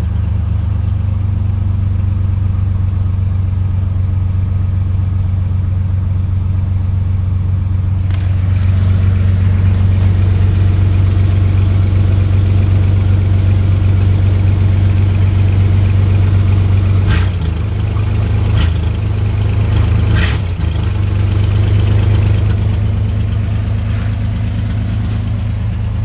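GMC Sonoma pickup's engine idling steadily just after a cold start, having fired right up with good oil pressure. The idle gets a little louder about a third of the way in, and a few short clicks or knocks come about two-thirds through.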